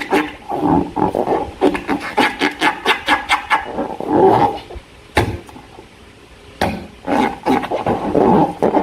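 Slime being squeezed and kneaded by hand: wet squelching with rapid sticky clicks and crackles, easing off for about a second after five seconds in before picking up again.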